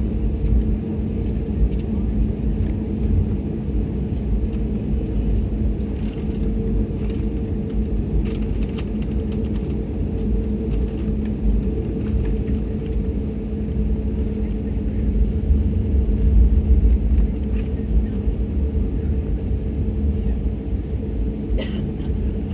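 Airbus A321neo cabin noise: a steady low rumble with an even hum, with a few faint clicks.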